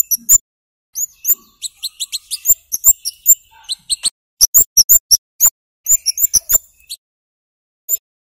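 Scarlet-headed flowerpecker (kemade) giving loud, very high, sharp 'cit' chip notes in rapid clusters, breaking off near the end with a single note.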